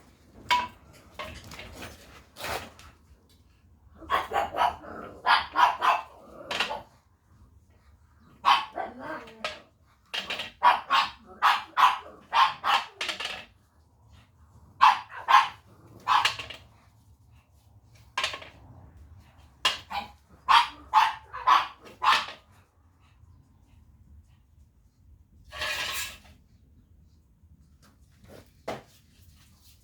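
A dog barking over and over in quick runs of several barks, with short pauses between runs.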